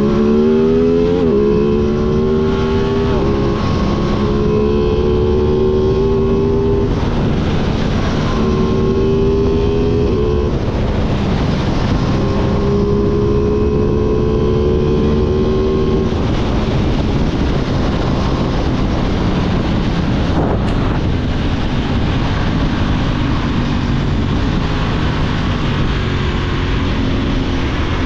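Aprilia sport motorcycle accelerating hard through the gears, the engine's pitch climbing and dropping back at each upshift. It then holds a steady speed under a loud rushing noise.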